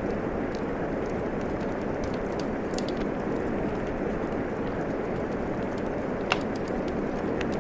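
Steady rain hiss mixed with a wood fire crackling, small pops scattered through it and one sharper pop about six seconds in.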